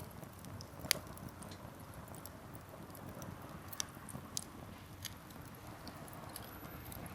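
Wood campfire burning with a low steady rush of flame, the firewood crackling in irregular sharp pops, the loudest about a second in.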